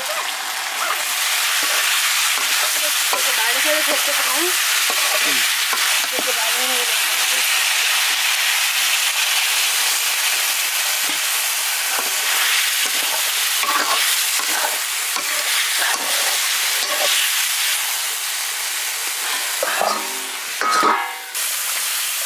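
Chicken frying and sizzling in an iron wok, stirred and scraped with a metal ladle. A brief louder clatter comes near the end.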